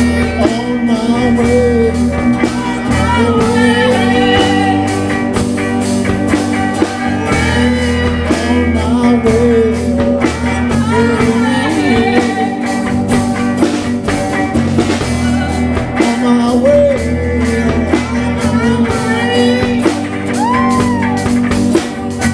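Live band with drums and guitar playing a blues-rock song, with voices singing over it.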